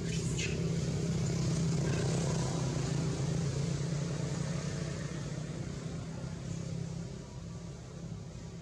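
A motor vehicle's engine running with a steady low hum, fading away over the last second or two.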